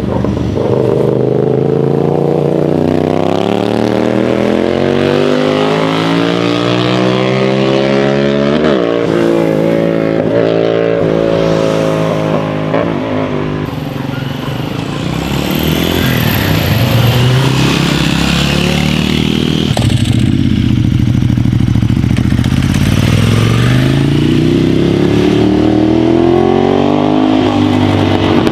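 Sport motorcycle's exhaust note under acceleration. The engine pitch climbs steadily for several seconds and drops sharply about nine seconds in. It wavers lower through the middle, then climbs again near the end.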